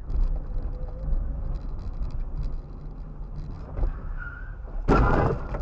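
A car driving, with a steady low rumble of engine and road noise. About five seconds in there is a brief, loud, sudden noise.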